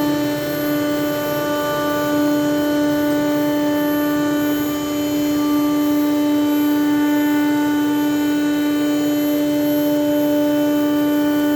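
ShopSabre Pro 408 CNC router spindle running steadily with a loud, even pitched whine as the bit cuts through half-inch StarBoard (HDPE) sheet at 180 inches per minute, throwing chips.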